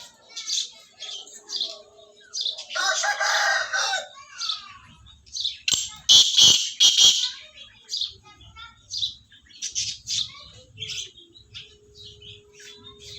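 Budgerigars chirping throughout. A rooster crows once about three seconds in, and a loud, harsh burst of bird calls or wing flapping comes about six seconds in.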